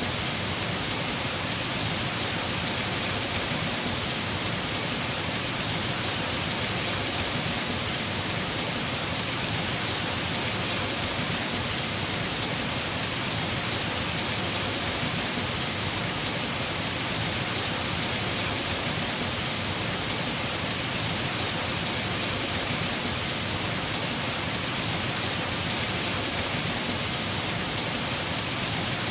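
Heavy rain falling steadily on a house roof, an even hiss with no let-up.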